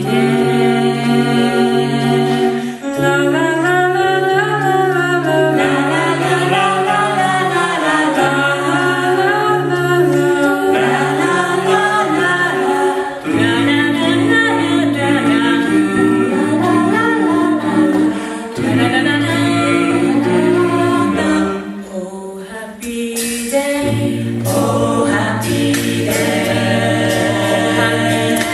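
An a cappella vocal group singing in harmony, with a bass voice holding long low notes under the upper parts. A brief drop about three quarters of the way through is followed by short sharp accents over the singing.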